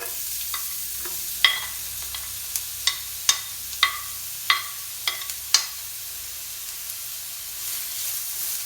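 Chopped onion sizzling in hot oil in a pan, the sizzle starting suddenly as it hits the oil. It is stirred, with a utensil knocking against the pan about twice a second for several seconds, then the sizzle goes on steadily.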